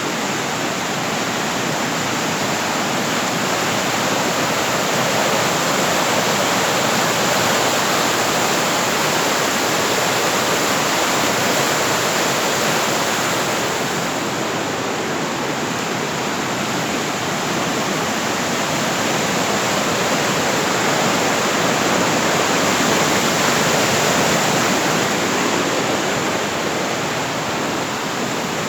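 Steady rush of fast-flowing water, a stream or small waterfall running loud and unbroken.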